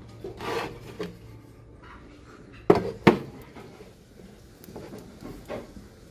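Handling noise as items are picked up and set down: a soft rustle near the start, then two sharp knocks close together about three seconds in, with a few faint ticks after.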